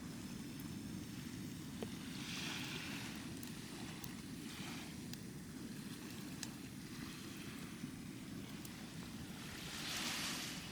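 Waves washing onto a sandy beach over a steady low rumble of surf and wind, with a hissing wash about two seconds in, a smaller one near the middle and a louder one near the end.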